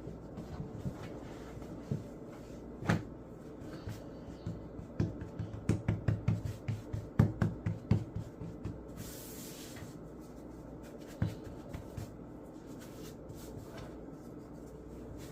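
Kitchen counter work: soft knocks and thumps, with a quick run of about three to four a second from about five to eight seconds in, and a brief hiss just before the ten-second mark.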